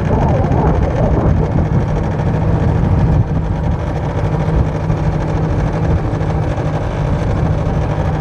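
1978 Mercury 7.5 hp two-stroke outboard motor running steadily at cruising speed, pushing a jon boat along.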